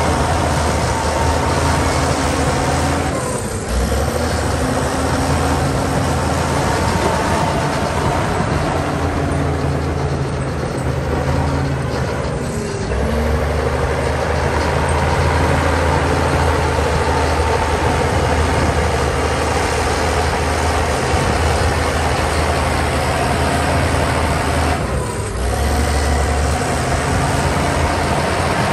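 Heavy diesel engines of earthmoving machinery running steadily with a low drone, the note shifting briefly three times.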